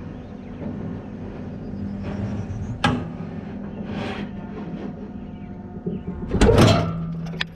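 John Deere 331G skid steer's diesel engine running steadily as the machine drives over rough ground, with rattles and clunks from the cab: a sharp knock about three seconds in and a heavier, louder clatter near the end.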